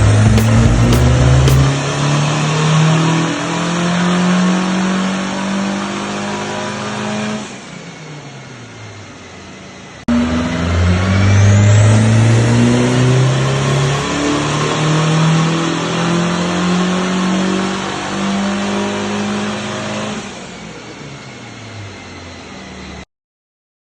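Turbocharged KA24DET four-cylinder in a Nissan 240SX revving hard through two full-throttle pulls, typical of dyno runs. Each time the engine note climbs in pitch for about seven seconds, then the throttle is lifted and the revs fall away; the second pull starts suddenly about ten seconds in.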